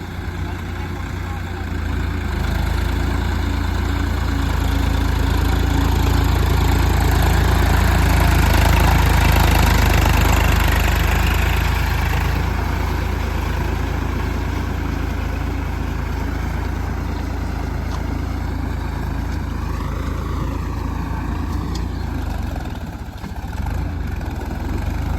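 Tractor engine running steadily, getting louder toward the middle and easing off again about halfway through.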